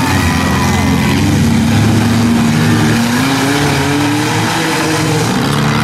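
Demolition derby cars' four- and six-cylinder engines revving hard as the cars shove against each other, the pitch climbing from about three seconds in.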